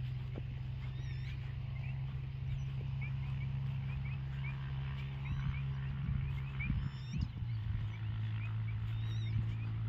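Outdoor animal calls: many short, repeated chirps over a steady low hum, with a few louder low rumbles about halfway through.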